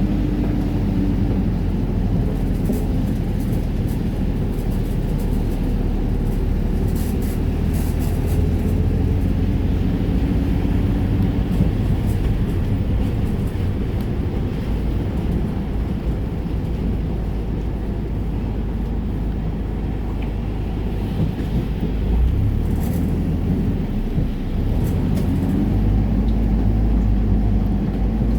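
Steady low rumble of road traffic or a running vehicle, with faint engine tones near the start and again near the end.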